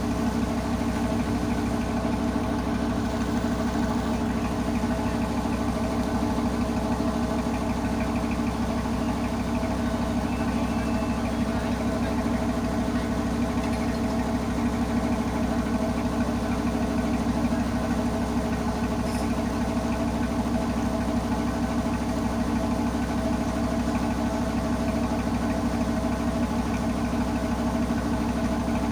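Tugboat's engine running steadily at a constant speed, an even, rapid pulsing throb with no change in pitch.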